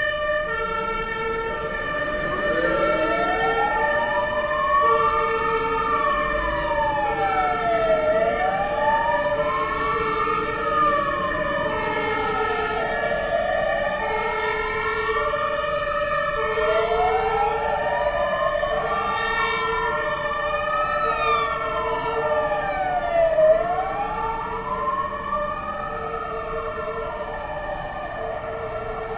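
Emergency-vehicle siren sound effect wailing, its pitch rising and falling slowly about every four to five seconds. Under the wail, a lower tone pulses on and off about once a second.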